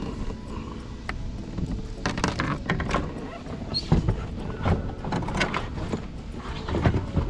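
Wind buffeting the microphone with a steady low rumble, and irregular knocks and clattering starting about two seconds in.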